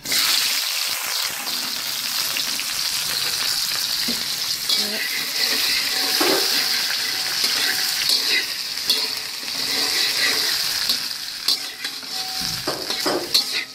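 Ingredients put into hot cooking oil in a pan, sizzling loudly from the moment they go in, then stirred, with occasional knocks and scrapes of the utensil against the pan.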